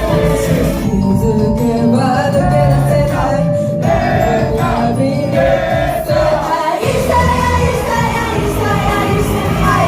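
Idol group's live stage performance: a pop song played over the PA with sung vocals. The heavy low beat thins out near the middle and comes back in strongly about seven seconds in.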